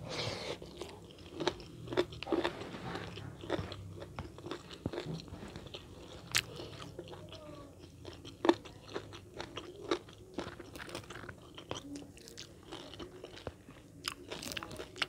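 A person eating close to the microphone: irregular crunchy bites and chewing, with a few louder crunches.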